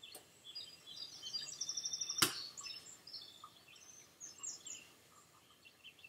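Small birds chirping, with a quick trill of repeated high notes a second or two in. One sharp click just after two seconds is the loudest sound.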